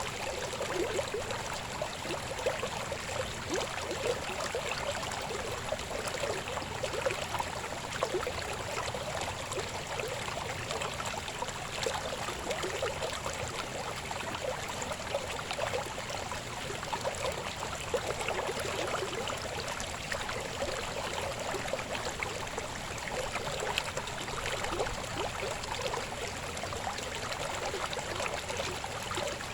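River babbling: a steady rush of flowing water with fine bubbling, strongest in the middle pitches.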